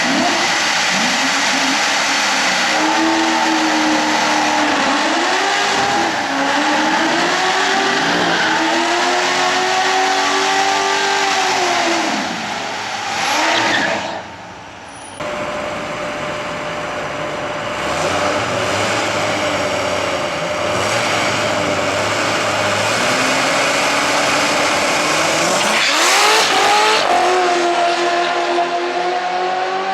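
Vortech-supercharged V8 of a C6 Corvette drag car running and revving, its pitch rising and falling again and again. The sound drops out briefly about halfway through, then the engine runs again and revs up hard near the end.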